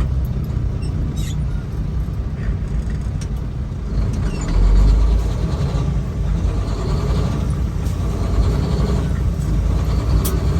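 Semi truck's diesel engine running, heard from inside the cab, a steady low rumble that swells louder for about a second around four seconds in.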